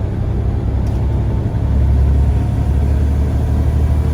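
Scania CN94UA bus engine running with a steady low rumble that grows stronger about a second and a half in.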